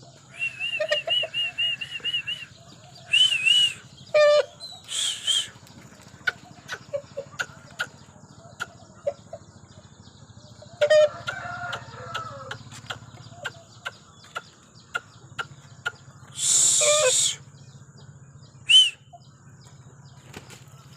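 Aseel chickens: a quick run of high repeated chirps, then scattered short high calls, clucks and sharp clicks. About seventeen seconds in comes a loud burst of wing flapping, the loudest sound.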